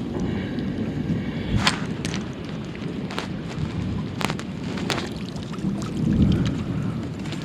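Steady rain falling, with a low rumble of wind on the microphone and several sharp drip-like taps, and a swell of low rumbling about six seconds in.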